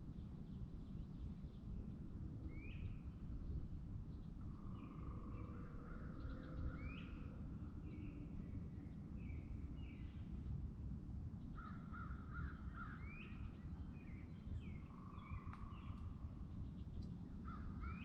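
Birds calling over and over: short calls that rise and hook up, about every two seconds, with trilling calls in between, over a low steady rumble.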